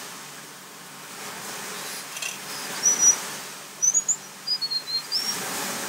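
A small bird chirping: a string of short, high whistled notes that slide up and down, mostly in the second half, over a steady faint hiss.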